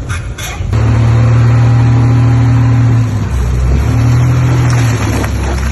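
Heavy earthmoving machine's diesel engine running under load. It revs up under a second in, eases off about three seconds in, revs again and then settles to a lower, steadier note near the end.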